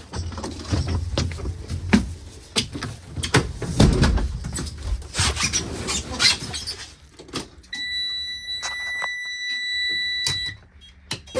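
Irregular knocks and clatter, then a steady high-pitched electronic warning buzzer from a school bus dashboard that sounds for about three seconds and cuts off suddenly.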